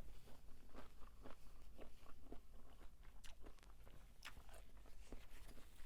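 Close-up chewing of crunchy spicy squid salad: irregular wet crunches and bites, a few a second.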